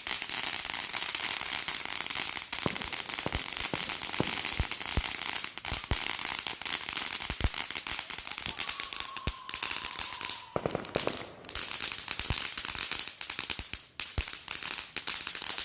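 Fireworks crackling densely and without a break, with many sharp pops and scattered louder bangs, stopping suddenly near the end.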